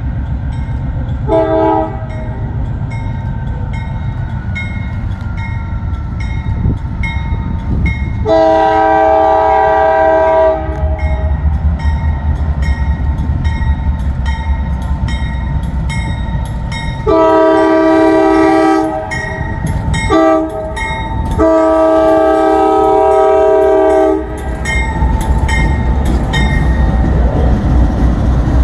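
Norfolk Southern freight locomotive's air horn sounding the grade-crossing signal, long, long, short, long, after a brief toot. Under it runs the steady rumble of the passing freight train, with rhythmic wheel clicks over the rail joints.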